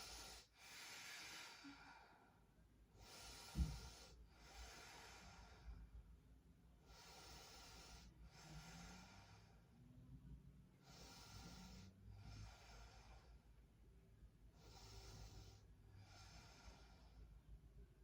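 Slow, faint, deep breathing, inhale and exhale in a steady rhythm, as a yoga practitioner slows the breath while holding a supine twist. A single soft thump about three and a half seconds in.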